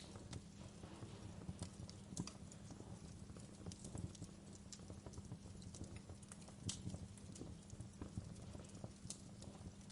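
Wood fire burning: irregular sharp crackles and snaps, a couple of them louder, over a steady low rumble.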